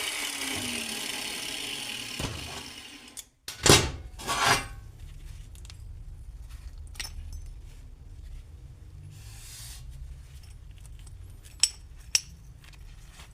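A workshop power tool runs with a falling whine as it winds down and stops. Then come two loud metal knocks, followed by a faint low hum with scattered light taps and two sharper clicks near the end.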